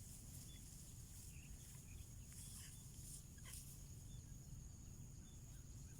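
Quiet outdoor ambience: a steady high insect drone with faint, short bird chirps and a few soft knocks.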